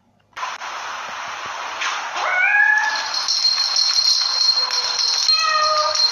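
A cat meowing loudly over a steady hiss, with a rising meow about two seconds in and more calls near the end.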